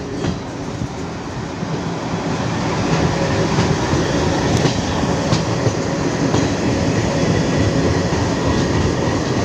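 Passenger train running on the track: a steady rumble of the coaches with occasional wheel clicks over rail joints, growing louder over the first three seconds.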